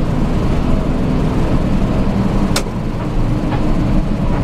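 Car on the move: a steady low engine and road rumble, with one sharp click about two and a half seconds in.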